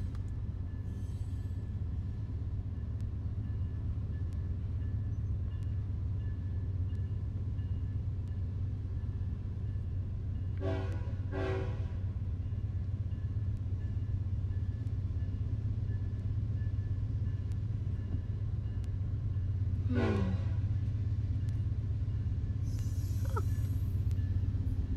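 Diesel freight locomotive rumbling steadily as it pulls out under power, heard from inside a car. The locomotive's horn gives two short blasts about halfway through and one more short blast about twenty seconds in.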